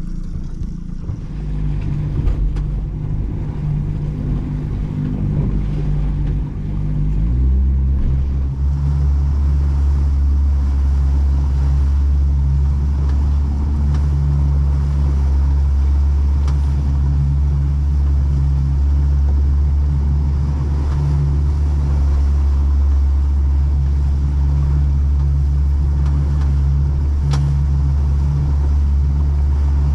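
Small boat's engine running at low revs, then rising in pitch and getting louder about seven seconds in, and holding a steady drone at the higher revs.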